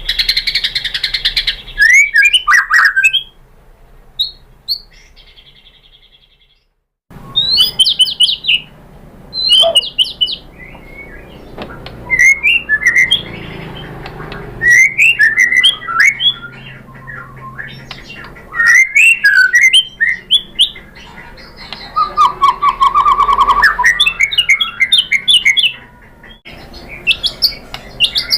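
White-rumped shama (murai batu) singing loudly: varied phrases of quick whistled notes that slide up and down, with a fast trill of repeated notes a little past the twenty-second mark. The song drops out for a few seconds about four seconds in, then resumes.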